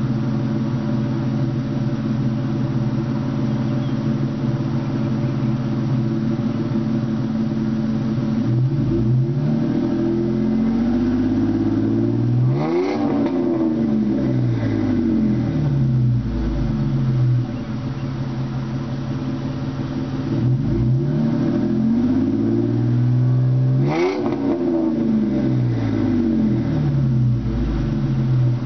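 2004 Ford Mustang's 3.8-litre V6 through a Flowmaster 40 true dual exhaust with H-pipe and high-flow cats, idling steadily, then revved twice, each rev climbing to a peak and falling back to idle.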